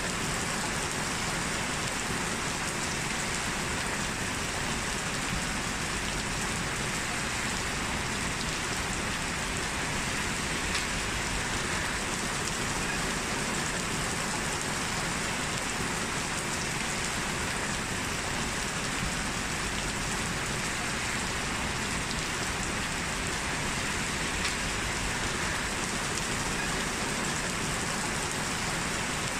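Steady rain falling, an even hiss of drops on a surface with no letting up.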